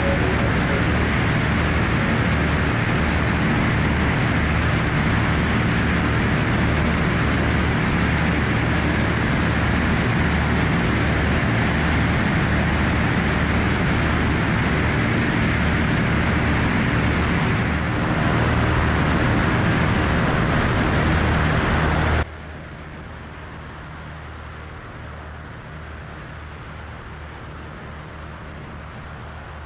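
Cessna 337 Skymaster push-pull twin in flight, both six-cylinder piston engines and propellers running with wind rush in a loud, steady drone. About 22 seconds in, it drops suddenly to a quieter, steady low drone.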